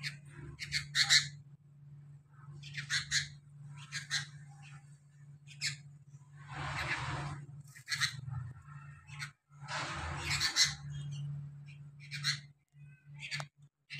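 Sooty-headed bulbul chicks calling: short, high-pitched calls in scattered bursts, with two longer, harsher calls around the middle, over a steady low hum.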